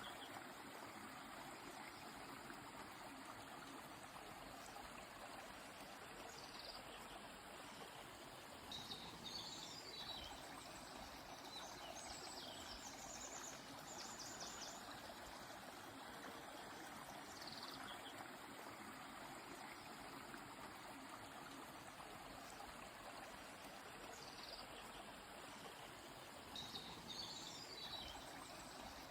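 Faint, steady rush of a flowing river, with birds giving short, high chirps and quick falling calls every few seconds.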